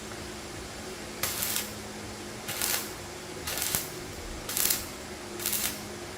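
Five short hissing bursts, about one a second, over a steady low hum.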